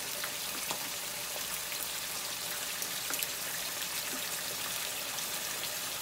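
Chicken livers and sliced onions frying in oil in a pan: a steady sizzling hiss with faint scattered crackles.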